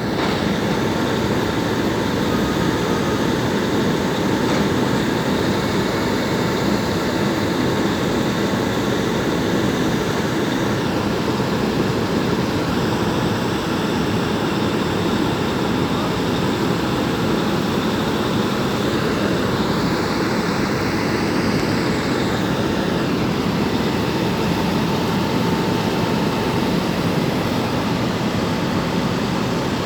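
Steady rumble of vehicle noise, with a faint whining tone that rises and falls about twenty seconds in.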